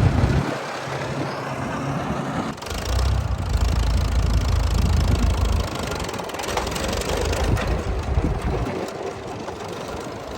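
Old farm tractor engines running. The sound changes abruptly about two and a half seconds in, to a heavier low rumble, and drops to a quieter run at about six seconds.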